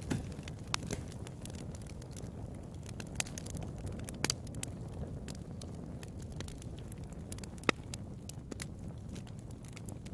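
Fire burning in a fireplace: a steady low rumble with scattered crackles and sharp pops, the loudest pop about three-quarters of the way through.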